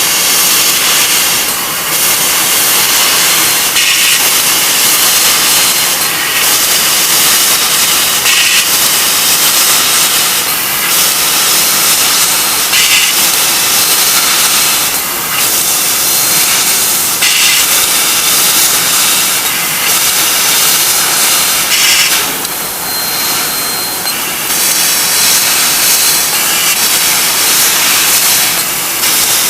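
CNC laser cutting machine cutting sheet metal: a loud, steady hiss, with brief breaks and changes every couple of seconds.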